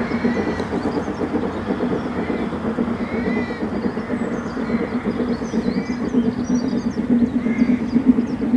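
Steady low rumble of a train approaching out of sight along the line, with birds singing over it in short chirps.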